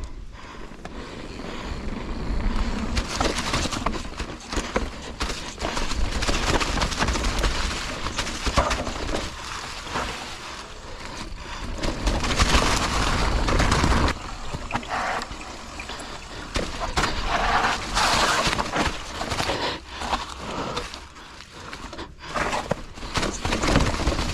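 Mountain bike descending a rough, wet trail heard from a rider-mounted action camera: tyres rolling and skidding over dirt and rock with frequent knocks and rattles from the bike, and wind buffeting the microphone. The noise surges and eases as the rider speeds up and slows.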